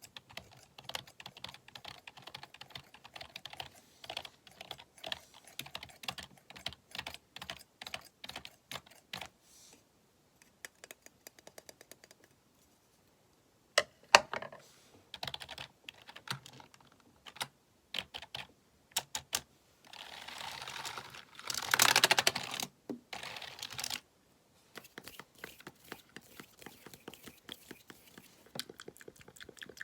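Computer keyboard typing in quick runs of key clicks, with short pauses, close to the microphone. About two-thirds through, a louder hissing rustle lasts a few seconds.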